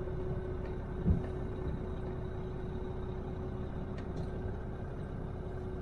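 Truck engine running steadily, heard from inside the cab as a low rumble with a steady hum. There is a single dull thump about a second in.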